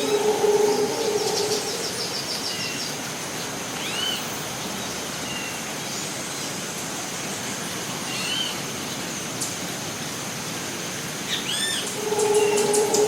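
Rainforest ambience: a steady hiss under a constant high insect drone, with birds calling in short chirps, arched whistles and a brief rapid trill. A low hooting call sounds at the start and again near the end.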